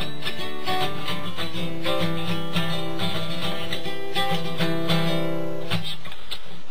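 Guitar strummed chord by chord, basic chords, the playing stopping about a second before the end.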